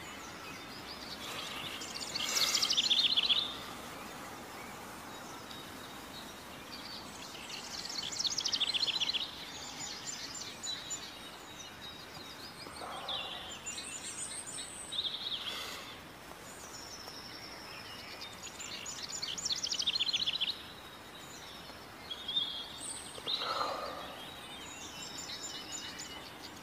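Songbirds singing: four bursts of rapid, high trilling a second or two long, spaced several seconds apart, with shorter chirps in between, over a steady background hiss.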